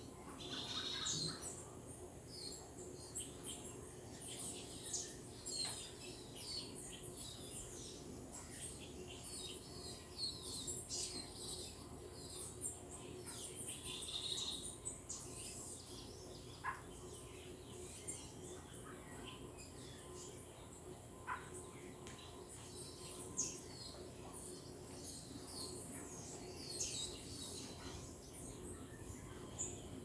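Several wild birds chirping and calling, with many short high calls overlapping throughout and a few louder ones near the start and about halfway. A faint steady hum runs underneath.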